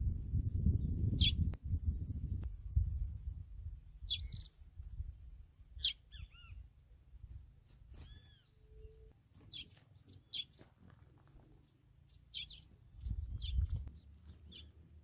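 A small bird giving short, sharp chirps, about one every second or two, some as arched or falling notes. A low rumbling noise sits under the first few seconds and comes back briefly near the end.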